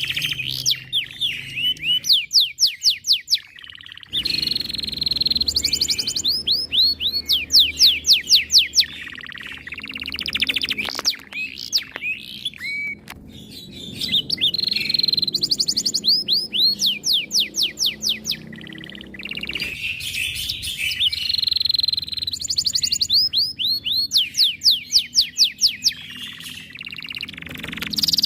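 Domestic canary singing long, loud song phrases built of rapid trills of repeated downward-sweeping notes, about ten a second, with short pauses between phrases.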